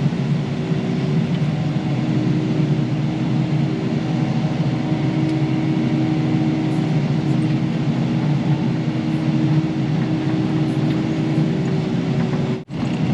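Kubota KX080 excavator's diesel engine running steadily at working revs while digging, a constant low drone. The sound cuts out for an instant near the end.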